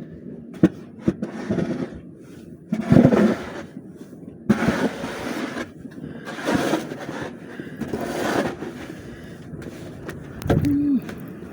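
Footsteps crunching and scraping in deep snow, mixed with sharp knocks and clatters, in irregular loud bursts a second or two apart. A brief low tone sounds near the end.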